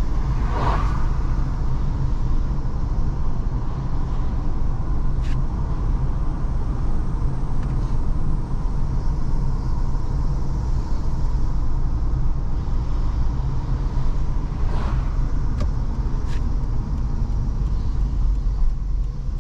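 Car driving along a road, heard from inside the cabin: a steady low rumble of engine and tyres, with a few brief soft swishes or clicks.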